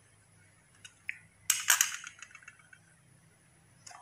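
Die-cast toy cars clicking and clinking against each other and a plastic container as they are handled. There are a couple of faint clicks about a second in and a short cluster of louder clatter about a second and a half in, followed by a few lighter ticks.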